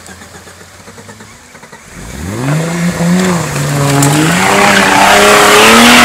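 Off-road 4x4's engine revving hard while the vehicle pushes through deep mud: after a quiet idle for about two seconds the pitch climbs sharply and stays high, surging up and down under load.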